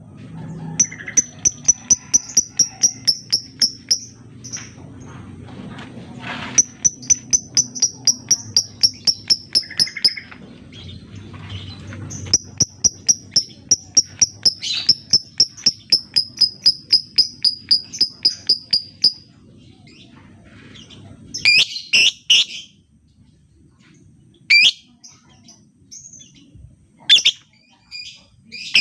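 Lovebird calling in long runs of rapid, evenly spaced high chirps, about four or five a second, with short pauses between runs. In the last third come a few louder, harsher single calls over a low background hum that stops partway through.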